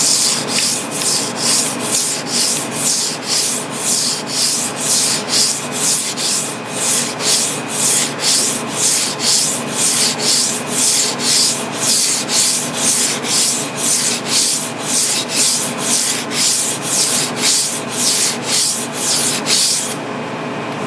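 Kitchen knife blade being stroked back and forth on a wet, water-soaked whetstone, a steady gritty scraping at about two strokes a second. The blade is held at about 15 degrees to sharpen and smooth a ridged edge. The strokes stop shortly before the end.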